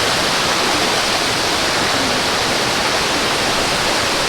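Changey Falls waterfall crashing into its pool, a steady, loud roar of falling water.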